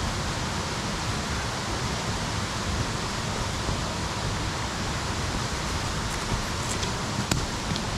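Steady rushing of water, even and unbroken, with a couple of brief sharp ticks about seven seconds in.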